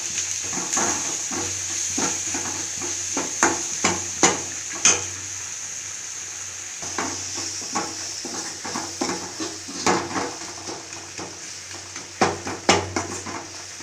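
Chicken gravy sizzling in a pan while a metal spoon stirs it, scraping and knocking against the pan with irregular sharp clicks.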